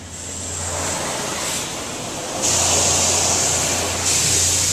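Laserwash 4000 touchless car wash spraying rinse water onto the car body, heard from inside the car as a steady hiss of water over a low hum, growing louder about two and a half seconds in as the spray comes closer.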